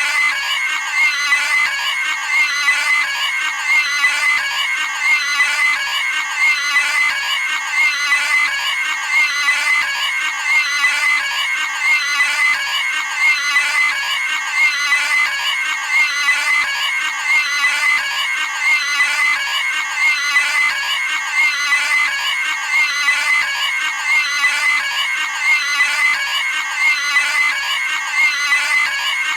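Cartoon pig screaming in high-pitched squeals, a short clip looped over and over with no break, about two squeals a second.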